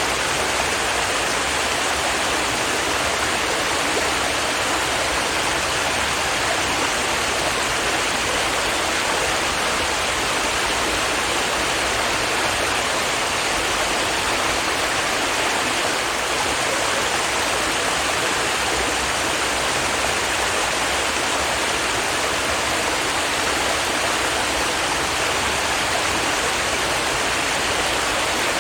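Stream water running steadily over rocks: a continuous, even rushing and babbling.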